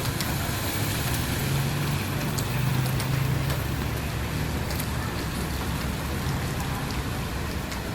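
Heavy rain pouring steadily, drops ticking sharply close by as on an umbrella, over the low hum of a motor vehicle's engine in street traffic that swells in the middle.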